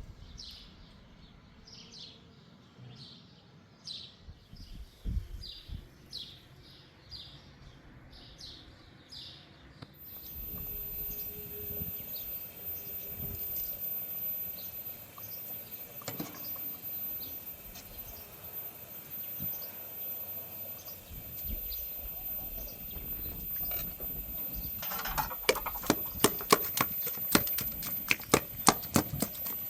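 A bird chirping over and over, roughly one call a second, in quiet open air. After a cut comes a low background, and about 25 seconds in there is a quick run of sharp knocks, several a second, like a knife chopping on a board.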